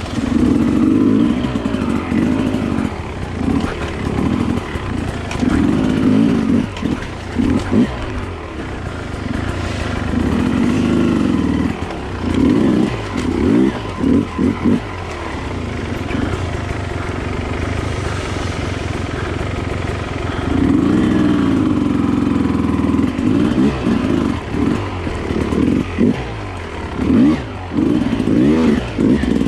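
Dirt bike engine heard from on board, revving up and down in repeated bursts of throttle, with steadier stretches of lower revs between them.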